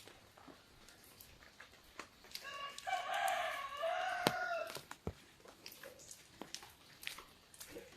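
A rooster crowing once: a single drawn-out crow of about two seconds in the middle, over scattered drops of rain tapping on an umbrella.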